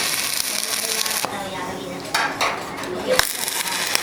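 Small metal pieces clinking and jingling against one another in a workshop, with a sharp click about three seconds in.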